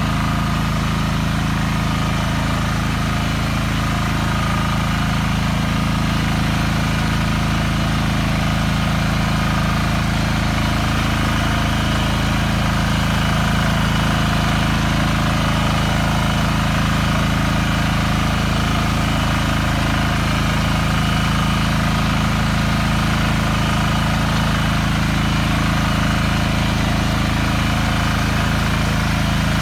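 BCS 740 two-wheel walking tractor's engine running steadily at an even speed, with no revving.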